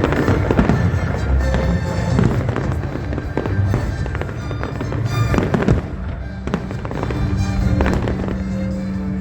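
Fireworks bursting, many sharp bangs in quick succession, over music playing.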